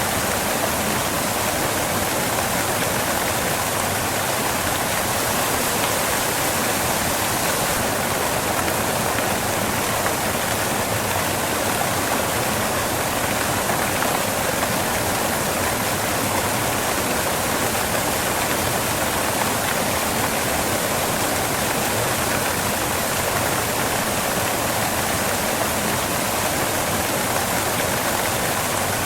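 Waterfall rushing: a steady, even rush of falling water with no breaks.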